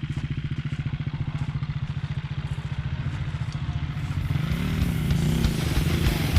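Dirt bike engine idling with an even, rapid pulse. Music fades in over it from about halfway through.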